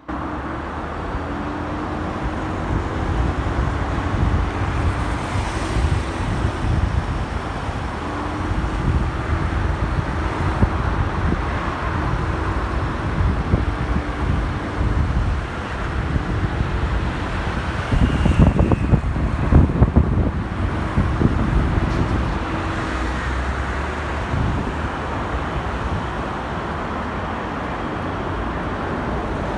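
Motorcycle engine running while riding in city traffic, with wind buffeting the microphone; a louder stretch of a few seconds about two-thirds of the way through.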